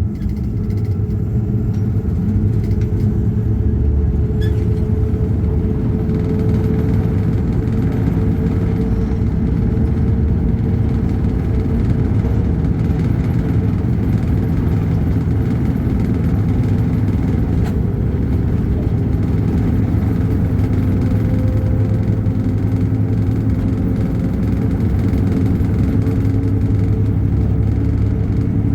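An engine running steadily with a low drone, the sound of a motor vehicle under way or idling.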